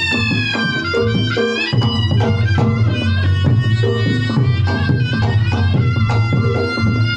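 Reog Ponorogo gamelan music: a slompret, a reedy Javanese shawm, plays a bending, wailing melody over fast kendang drumming and steady gong and kenong strokes.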